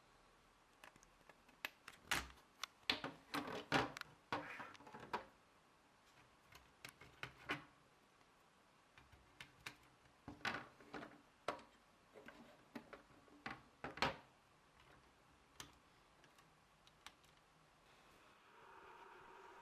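Plastic Lego parts clicking and clacking as they are handled, in irregular clusters of sharp clicks with quiet gaps between them.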